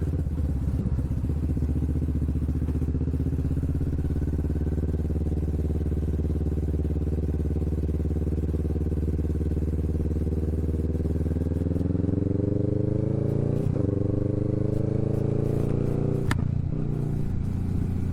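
Kawasaki Vulcan S parallel-twin engine running through a Hoonk twin aftermarket exhaust while riding, holding a steady pitch at first, then rising as the bike accelerates. The pitch drops briefly partway through and rises again. A sharp click comes near the end, after which the pitch falls.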